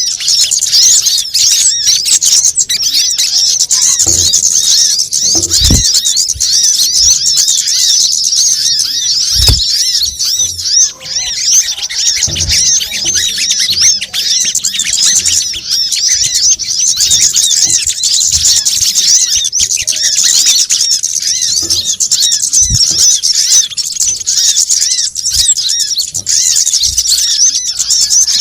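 Dense, busy chorus of sunbirds (kolibri kelapa, sogon and kemade), rapid high-pitched chirps and twitters overlapping without a break. It is a bird-trapping lure call. A few low thumps come through, around four, six and ten seconds in.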